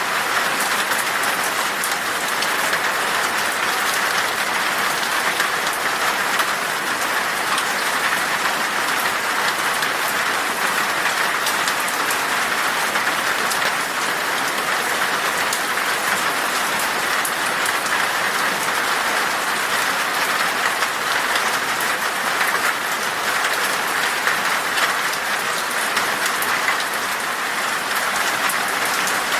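Steady rain falling in a forest, an even hiss with the fine patter of drops on surfaces.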